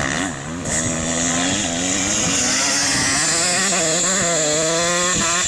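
Off-road racing motorcycle or quad engines running under throttle, more than one at once, their pitch rising and falling as the throttle is worked.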